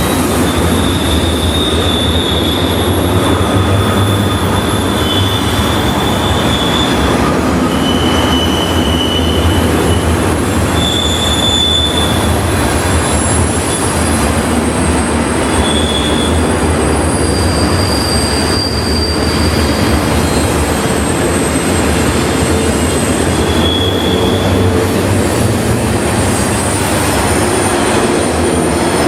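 Freight train cars rolling past, with the steel wheels giving high-pitched squeals against the rail that come and go over a steady rumble.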